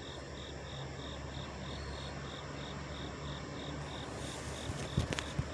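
Several idling truck engines give a steady low hum, with an insect chirping over it in an even high pulse about four times a second. A few sharp clicks come near the end.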